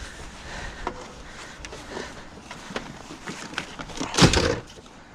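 Scattered light knocks and rattles of junk being handled, with one louder clattering clunk about four seconds in.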